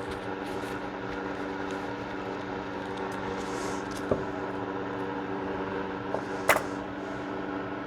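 Steady low electrical or mechanical hum in the room, with a few light clicks from gun parts being handled. The sharpest and loudest click comes about six and a half seconds in.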